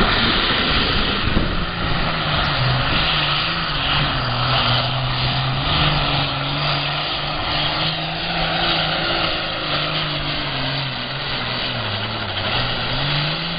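Diesel engine of a John Deere 7810 super farm pulling tractor running hard at full throttle under load while pulling the sled, its pitch wavering up and down and dipping briefly near the end before rising again.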